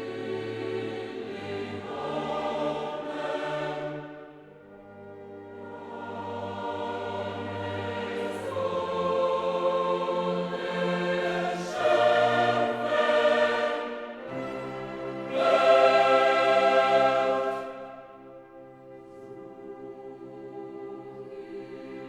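Choral music with orchestra: a choir singing long held chords that swell and fade, loudest about two-thirds of the way through.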